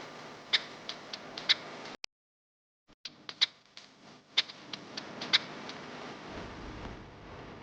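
Scattered small clicks and taps of hand work on mixer-grinder jar parts, irregular, a few to the second, with the sound dropping out for about a second near two seconds in.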